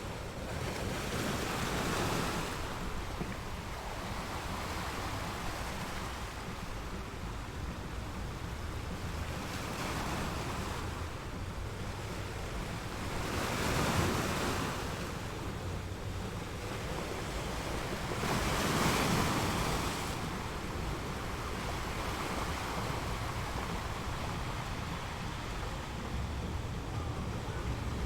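A steady outdoor rush of wind and water, with no birdcall or voice, surging louder three times: near the start, about halfway, and about two-thirds of the way in.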